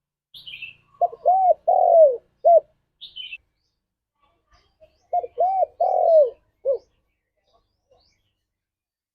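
Spotted dove cooing its song twice. Each phrase lasts about a second and a half and has four coos: a short one, an arched one, a longer one that falls away at the end, and a short last note. Short high chirps from a smaller bird come just before each of the first phrase's halves.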